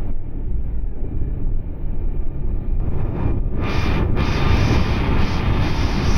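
Cabin noise of a Meitetsu electric train running at speed: a steady low rumble of wheels on rail. About three and a half seconds in, a rushing hiss comes in and drops out in patches.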